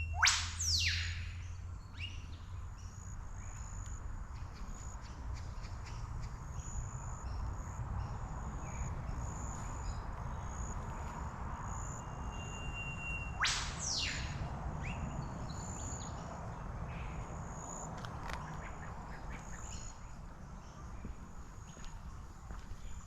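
Birds calling in garden bushland: two loud, very fast sweeping calls, one just after the start and one about halfway through, over faint repeated high chirping and a low steady rumble.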